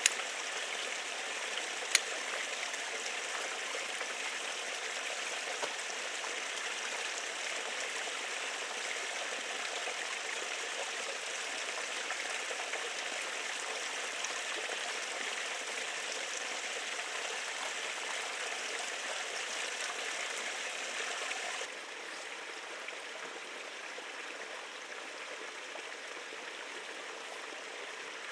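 Steady rushing of running water, like a stream, with two sharp clicks in the first two seconds. The level drops suddenly about three-quarters of the way through, then the rushing carries on more quietly.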